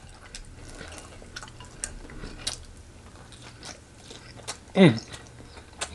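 Close-up eating of fried chicken: biting and chewing, with scattered short crunches and clicks. About five seconds in there is a brief falling vocal sound from the eater.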